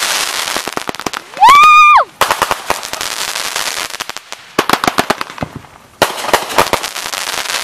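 Consumer fireworks going off in a finale barrage: dense, rapid crackling bangs in volleys, with brief lulls. About a second and a half in, a loud high-pitched tone rises and holds for about half a second.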